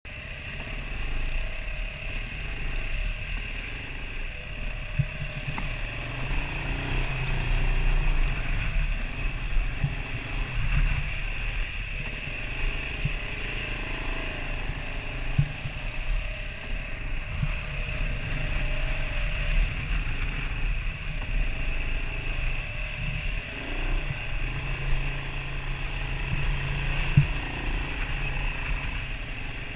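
Off-road vehicle engine running as it rides a rough trail, with scattered knocks and bumps.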